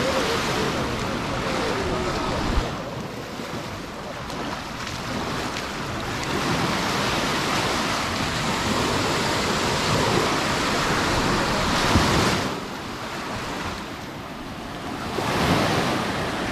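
Sea waves washing onto the beach in long surges that fall away sharply about two and a half and twelve seconds in, with another building near the end, over a little wind on the microphone.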